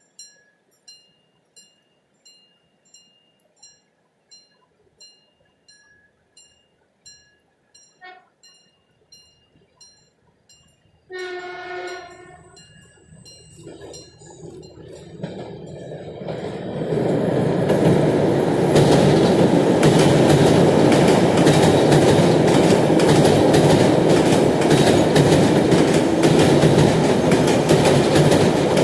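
Two coupled AEG/LEW Hennigsdorf DE IC2000N diesel-electric multiple units sound a horn blast of about a second, then a shorter one. They come on and cross a railway bridge: the noise builds over a few seconds into a loud steady rumble with the clatter of wheels. Before the horn, a short high chirp repeats about every 0.7 s.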